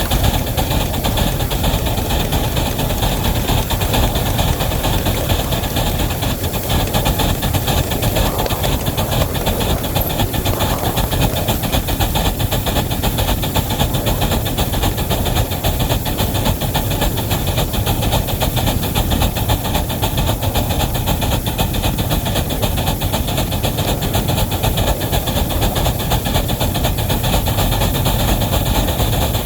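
Wabash #713 steam locomotive working with a heavy train: a steady hiss of steam over a continuous low rumble, with no pauses.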